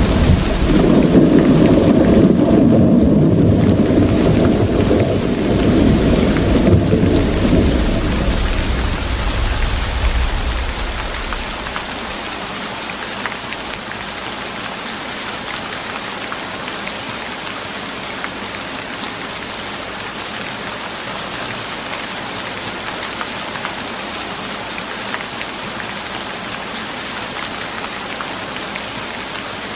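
Steady rain falling, with a long roll of thunder rumbling under it that dies away about a third of the way in, leaving only the even hiss of the rain.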